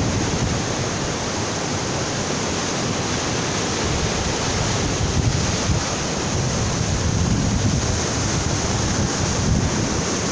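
Strong ocean surf washing onto a beach in a steady rush, with wind buffeting the microphone.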